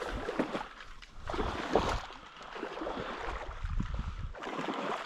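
Water sloshing and splashing in irregular surges.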